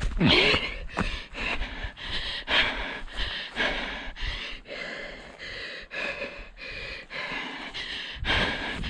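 Runner breathing hard while running, with footfalls about twice a second and wind rumbling on the head-mounted microphone.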